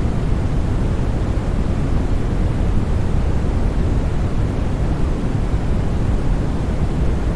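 Steady noise played to soothe a baby to sleep: an even, unchanging rush, heaviest in the deep bass and soft in the treble.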